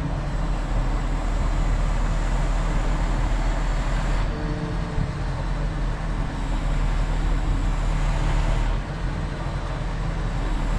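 A large engine running steadily with a low rumble, the kind of machinery noise heard while a crane lifts a sailboat's mast.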